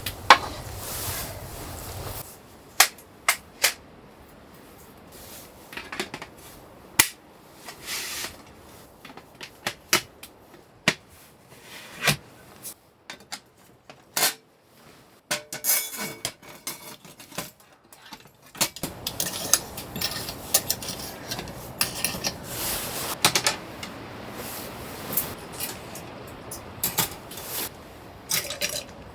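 Objects being handled: a long irregular series of sharp clicks and knocks, with a brief squeak partway through and denser clattering near the end.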